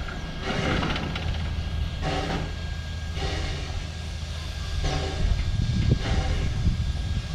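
Mary Valley Rattler heritage train, a steady low rumble with short bursts of sound coming irregularly over it.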